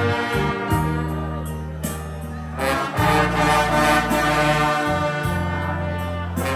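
Brass band music: trombones and trumpets playing held chords over a low bass line, with the chord changing every couple of seconds.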